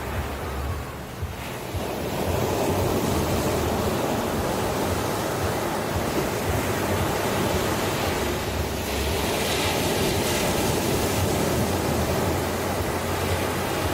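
Ocean waves breaking on the shore, a steady rush of surf that swells louder about two seconds in, with more hiss of washing water in the second half.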